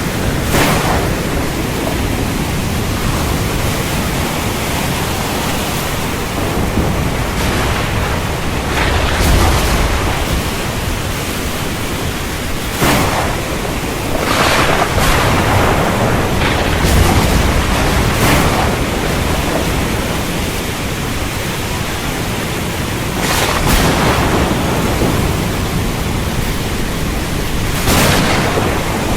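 Heavy rain falling steadily, with thunder rumbling low and several sharper cracks breaking through it.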